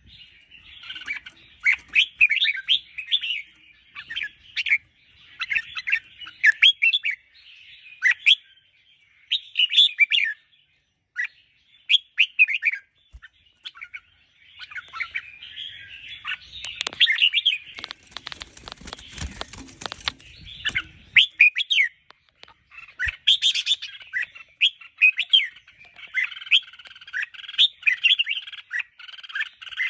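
Red-whiskered bulbul song: short, quick warbled phrases repeated every second or two, the 'rik' and 'double' song types used to excite caged bulbuls. A noisy burst of about three seconds interrupts it in the middle.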